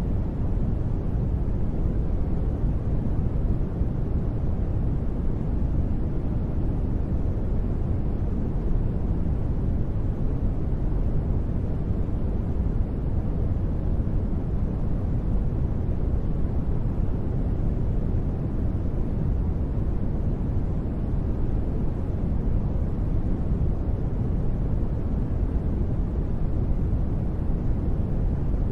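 Steady, unchanging sleep noise with no breaks or sudden sounds. It is deep and rumbling, with most of its weight in the bass and only a faint hiss on top.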